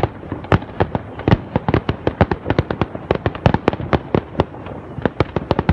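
Fireworks display: a dense, irregular crackle of sharp pops and bangs, several a second.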